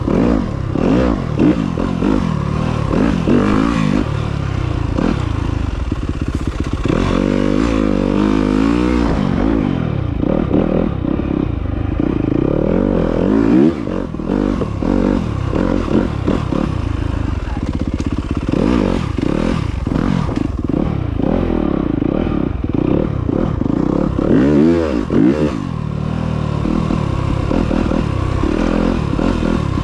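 Off-road motorcycle engine revving up and down again and again as it is ridden along a dirt trail, with clattering and scraping mixed in.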